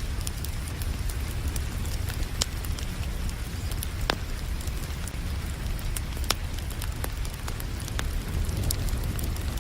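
Wood fire crackling, with sharp pops every second or two, over a steady hiss of rain and a steady low rumble.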